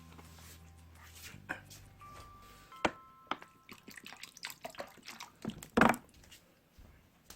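Close-miked eating of noodles in soy-milk broth: scattered clicks and short wet mouth sounds, with one louder slurp about six seconds in.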